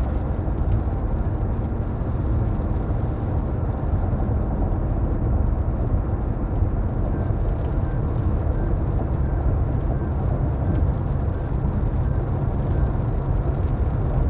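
Car driving on the road: a steady low rumble of engine and road noise, even throughout.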